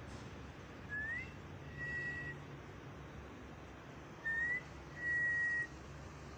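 A whistled two-note phrase, a short rising note then a held steady note, given twice.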